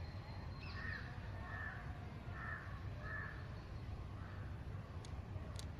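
A crow cawing about four times in quick succession, over a steady low rumble of background noise.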